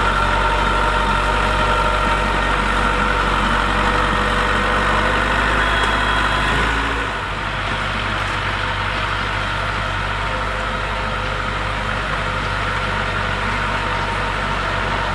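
Diesel engine of heavy construction machinery running steadily, dropping a little in level with a change in its low note about seven seconds in.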